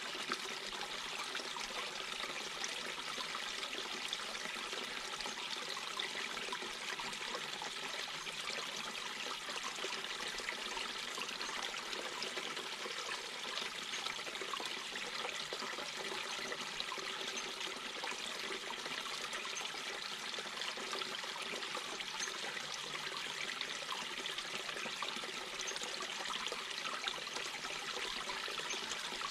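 Mountain brook babbling, water running and splashing steadily over rocks.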